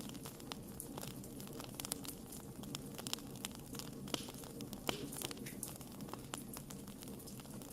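Wood fire crackling: irregular sharp pops and snaps from burning wood over a steady low hiss of flames.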